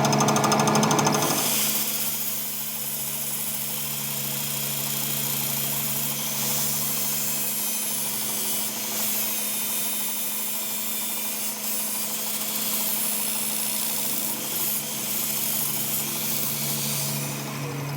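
A machine running steadily with a constant low hum and a hiss; for the first second and a half a louder, fast rattle sits on top, then stops.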